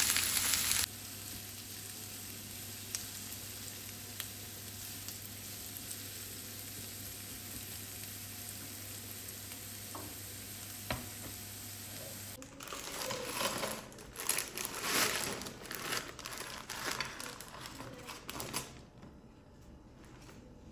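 Sliced onions and carrots frying in oil in a nonstick pan, a steady sizzle with a few light clicks, loudest in the first second. From about twelve seconds in, louder uneven sizzling as a silicone spatula stirs them, dying down near the end.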